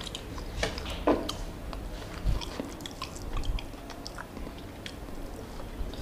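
A person chewing a mouthful of Somali rice and chicken close to a clip-on microphone, with scattered short clicks and smacks of the mouth and a soft low thump a little past two seconds in.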